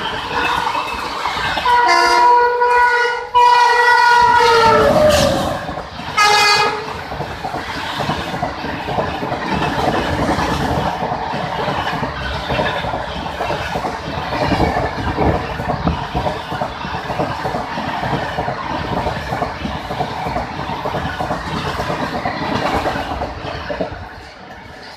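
Indian Railways locomotive air horn sounding a long blast with a brief break, its pitch dropping at the end, then one short blast. After that comes the steady rumble and wheel clatter of a train running past.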